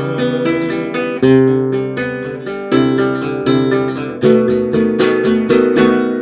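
Music: an acoustic guitar strumming chords, with a stronger stroke about every second and a half, the last chord ringing and fading near the end.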